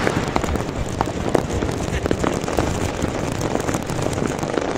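Large fireworks display: a continuous crackling hiss of bursting shells, with many sharp cracks and pops scattered through it.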